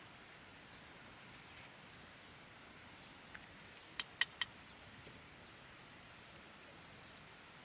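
Three sharp clicks in quick succession about four seconds in, over a faint steady background hiss.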